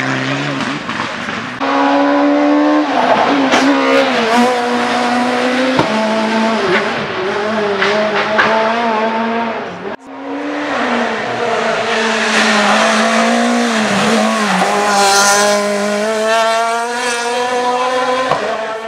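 Rally car engines running at high revs under hard driving, the pitch climbing and dropping with gear changes and lifts off the throttle. The sound breaks off about halfway through and a second car takes over, its engine rising steadily in pitch.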